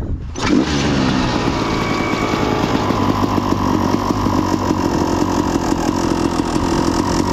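Dirt bike engine starting about half a second in, then running at a steady idle on a freshly gapped spark plug that replaced an oil-fouled one.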